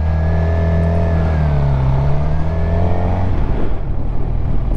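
Suzuki GSX-R750's inline-four engine running steadily, its pitch dipping slightly about midway and then rising again.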